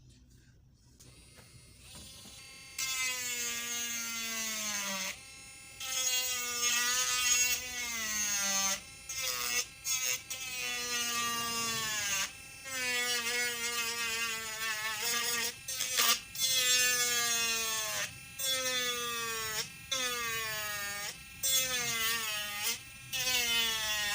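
Jadever 18 V cordless mini grinder's electric motor whining in repeated short runs, switched on and off about ten times, its pitch sliding down during each run.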